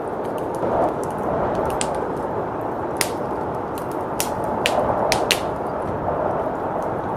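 Wood fire crackling in a fireplace, with irregular sharp pops, over a steady rush of blizzard wind.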